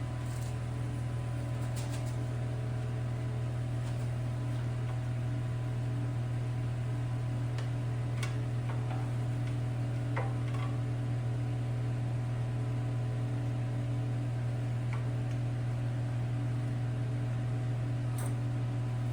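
A steady machine hum at an even level, with a few faint clicks and taps over it.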